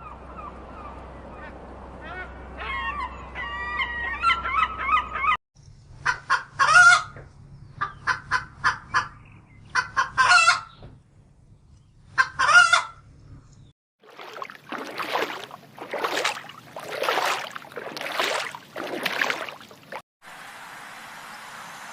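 Domestic fowl calling in several short clips cut together abruptly: pitched, wavering calls, then quick repeated clucks and cackles, then a run of about five longer, harsher calls about a second apart, ending in a steady hiss.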